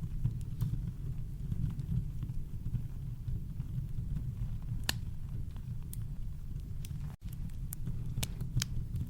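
Campfire crackling: scattered sharp pops and snaps of burning wood over a steady deep rumble of brown noise. The sound drops out for a split second about seven seconds in.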